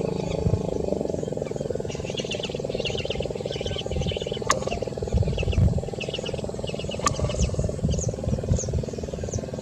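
Many wetland birds calling in short, high chirps and trills over a steady low rumble. Two sharp clicks cut through, about halfway and two-thirds of the way in.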